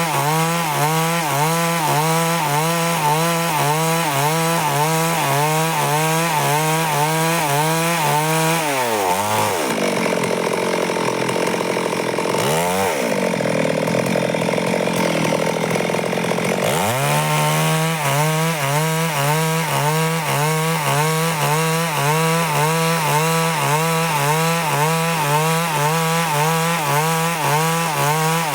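Stihl chainsaw running hard while ripping a board from a log, its pitch wavering steadily. About a third of the way in the engine pitch drops away and the sound turns rougher for several seconds, then it climbs back up a little past halfway and runs on as before.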